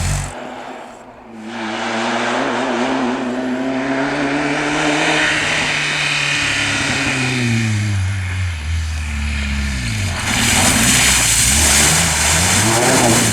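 Rally-raid vehicles at speed on a stage. One engine is heard rising, holding, then dropping in pitch as it passes. About ten seconds in, a louder one arrives suddenly with a rush of noise, its pitch rising.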